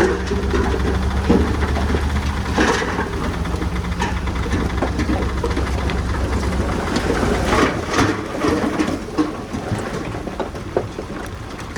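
Heavy earthmoving machine's diesel engine running, with repeated metallic clanks and rattles. The steady engine hum drops away about seven seconds in, leaving mostly clanking and rumble.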